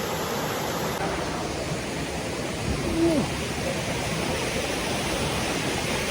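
Water cascading steadily down a rocky mountain stream and small waterfall, a constant rushing hiss, with a brief voice sound about three seconds in.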